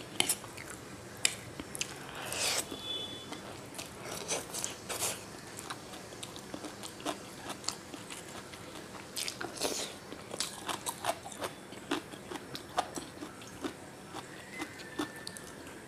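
Close-miked eating sounds: chewing and biting chow mein and kimchi, with irregular crisp crunches and small clicks.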